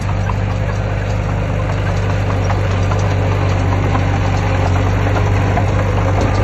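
Heavy diesel engine of earthmoving equipment running steadily, a constant low hum with scattered light clicks over it.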